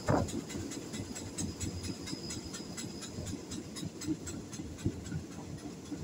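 Passenger train running on the track, heard from inside the carriage: a steady rumble of the wheels with irregular knocks, a sharp thump at the very start, and a faint high whine that fades out about halfway through.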